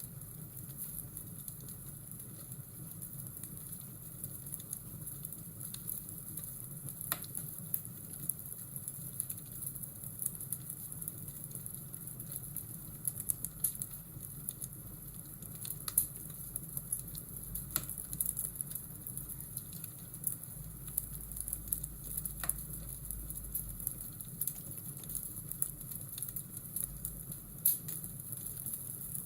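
Fireplace and rainstorm ambience: a wood fire crackling with scattered sharp pops over a steady hiss of rain.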